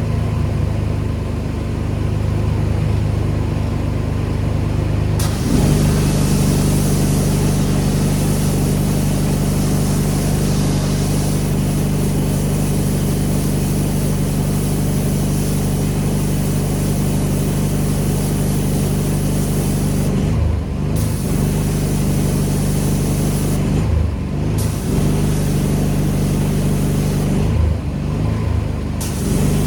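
A pressure washer's engine runs steadily under the hiss of the water spray. The spray starts about five seconds in. Near the end the trigger is let go three times, each a second or less: the hiss drops out briefly and the engine note dips before it picks up again.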